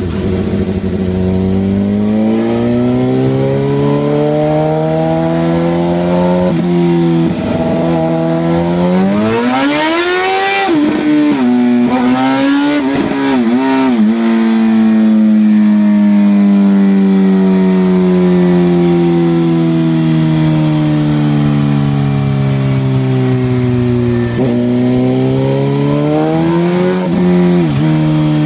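2007 Suzuki GSX-R 750's inline-four engine running loud on a dyno through a Two Brothers M-2 exhaust. The revs climb sharply to a peak about ten seconds in, and a few quick throttle blips follow. The pitch then eases slowly down, with more blips near the end.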